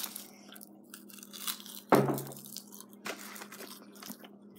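Mouth noises of someone chewing a tough piece of dried donkey skin: small wet clicks and crackles, with a short low vocal hum about two seconds in.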